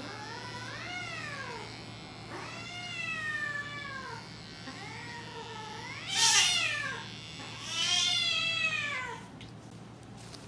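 Grey cat meowing four times in long, drawn-out calls, each rising then falling in pitch, the last two loudest: the upset, bird-like yowling of a cat being clipped.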